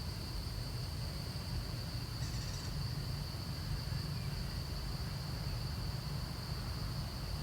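Steady high-pitched insect drone over a low rumble, with a brief chirp about two seconds in.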